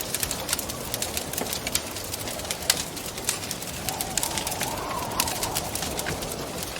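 Wood fire crackling with frequent sharp pops over a steady rush of wind. About four seconds in, the wind swells into a higher, whistling tone and then fades back.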